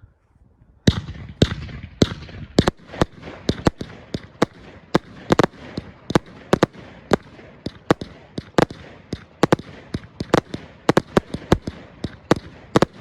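Galactic Fireworks Bone Shaker, a 50-shot firework cake, firing. A rapid, steady run of sharp reports starts about a second in and goes on at roughly two to four a second.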